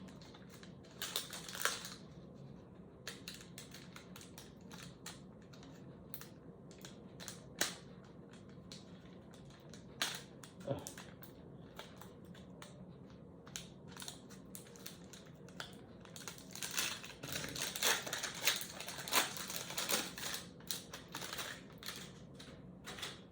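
A trading card pack's wrapper being torn open and crinkled, with the cards clicking as they are handled. The crinkling comes in a short patch about a second in and a longer stretch near the end, with scattered sharp clicks in between.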